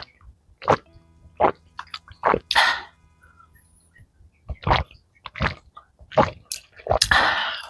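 Close-up eating sounds from someone eating very spicy malatang: a run of short, sharp mouth noises about once every second or less. Two longer, rushing breaths or slurps come about two and a half seconds in and near the end.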